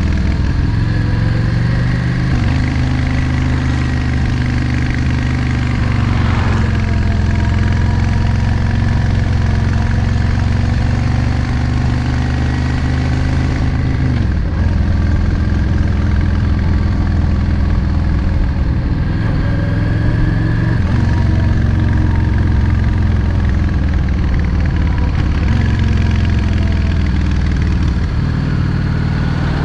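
Yamaha XVS 650 Drag Star's air-cooled V-twin engine running under way. Its pitch rises about two seconds in, drops sharply about fourteen seconds in, and changes again twice near the end.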